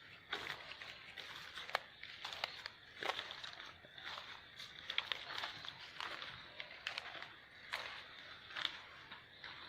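Footsteps crunching and crackling through dry undergrowth, in irregular steps with scattered sharp snaps.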